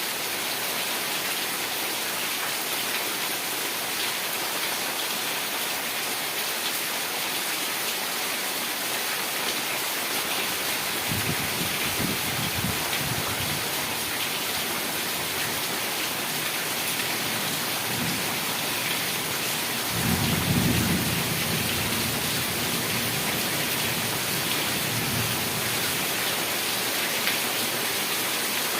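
Heavy rain falling steadily, with a low roll of thunder about 11 seconds in and a louder one about 20 seconds in.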